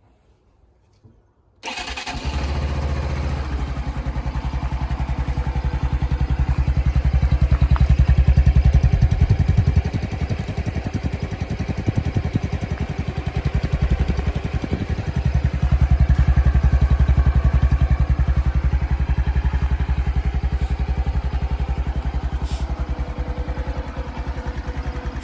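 Small four-stroke single-cylinder motorcycle engine started about two seconds in, heard through its exhaust muffler, then running at idle with two slow swells in engine speed.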